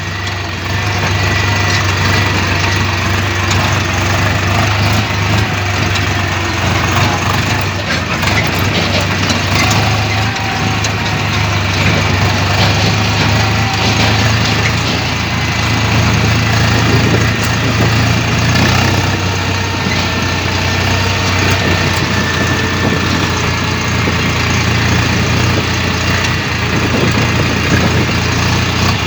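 Diesel tractor engine running steadily at idle, a constant low drone with no change in speed.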